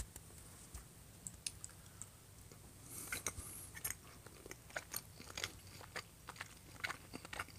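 A person chewing a mouthful of pork: faint, irregular wet mouth clicks, more frequent from about three seconds in.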